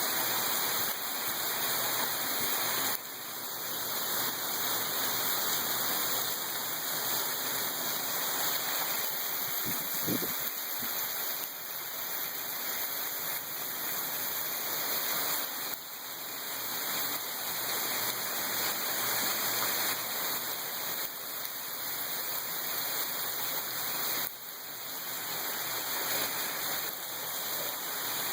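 Heavy rain pouring down as a dense, steady hiss, its level dipping suddenly twice.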